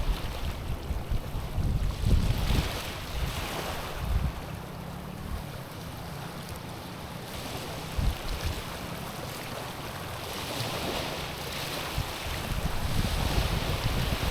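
Small waves lapping and washing over a stony shore, swelling and easing several times, with wind buffeting the microphone.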